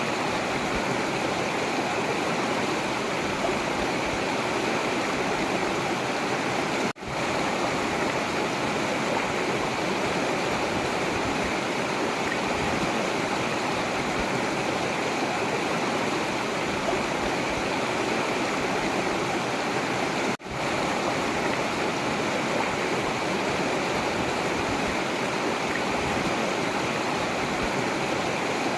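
Forest river flowing steadily, an even rush of water. The sound cuts out for an instant twice, about seven seconds in and again about two-thirds of the way through.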